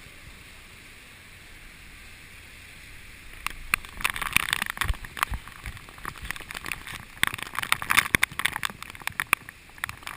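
Raindrops striking a head-mounted GoPro Hero2 camera in typhoon wind and rain. It starts as a steady hiss, and from about three and a half seconds in, dense, irregular sharp taps of drops hit the camera.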